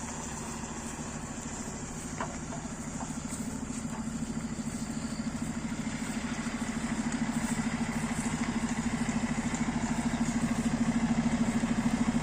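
Construction machine's engine running steadily with a fast pulsing beat, growing louder as it draws closer.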